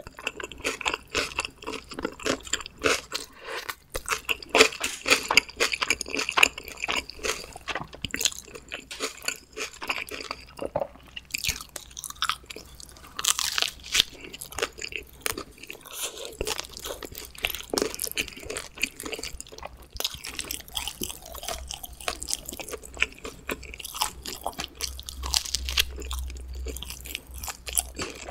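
Close-miked chewing and biting of homemade pizza, with irregular crunches throughout.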